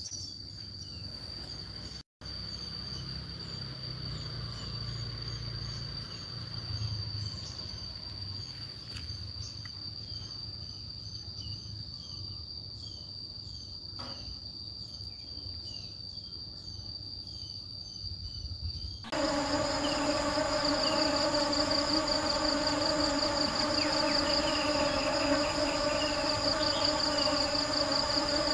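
Insects trilling: a steady high-pitched trill with scattered short chirps over it. About two-thirds of the way in it cuts to a louder, denser insect chorus with a pulsing trill and a lower buzz.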